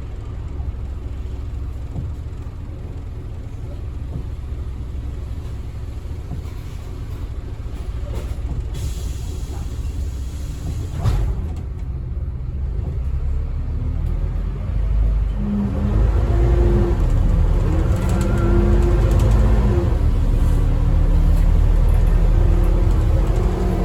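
Scania N230UD double-decker bus heard from on board, moving: a low, steady engine and road rumble, with a brief sharp noise about halfway through. In the last third the engine pulls harder and gets louder, its pitch rising and falling in steps as the gearbox changes gear.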